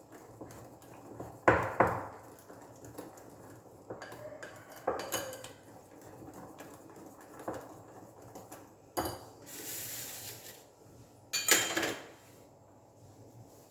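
A utensil stirring cake batter in a mixing bowl, knocking against the bowl now and then and scraping along it once for about a second near the middle.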